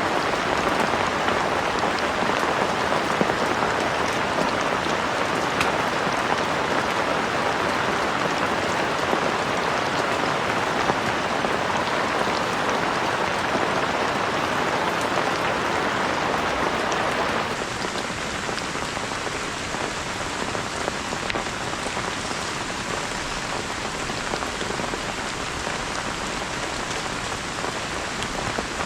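Heavy rain falling steadily, a dense patter of drops. About two-thirds of the way through it suddenly becomes a little softer and duller.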